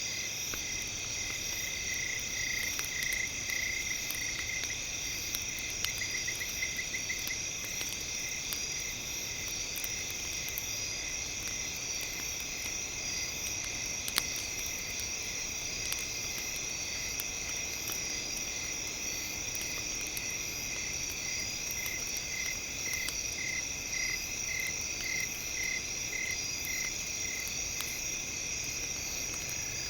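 A bed of steady high-pitched synthesized tones with a chirping pulse near 2 kHz, about two a second, that comes and goes. Scattered small crackles of a campfire run underneath.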